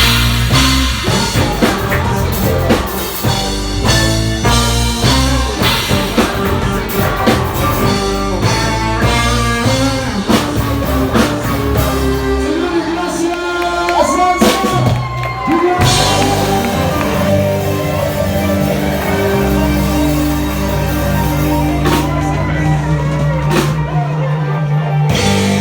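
Reggae-ska band music with drum kit and singing; about halfway through, a sliding pitch sweeps up and back down.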